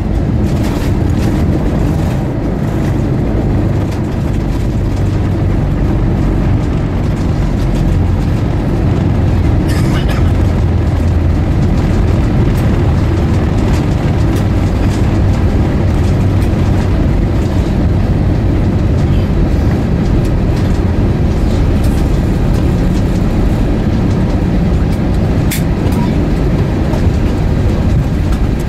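Airbus A320-232 cabin noise: a loud, steady low rumble from the IAE V2500 engines and the wheels as the airliner rolls on the ground just after landing, with a few faint clicks.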